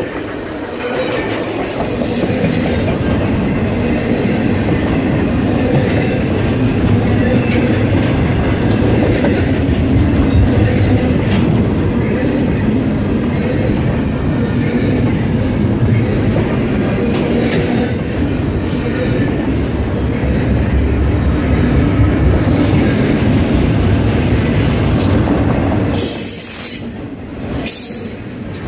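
Double-stack intermodal container train rolling past on well cars: a steady rumble of steel wheels on rail, with clicks at the rail joints and faint wheel squeal. The rumble dips briefly near the end.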